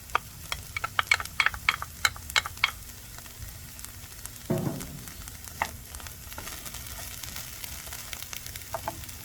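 Diced onion, bell pepper and garlic sizzling in a frying pan, with a utensil clicking and scraping against the pan in a quick run of strokes over the first few seconds as the vegetables are stirred. A brief low thump about four and a half seconds in, then a few scattered clicks over the steady sizzle.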